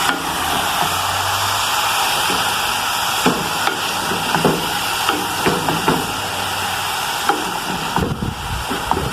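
Vegetables sizzling as they fry in a pot, with a spoon stirring and knocking against it now and then.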